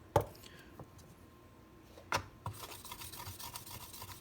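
A few sharp knocks as the knife is handled, then from about halfway a steady scrubbing as the rusty steel blade of a kitchen knife is rubbed with wet kitchen cleanser to remove rust.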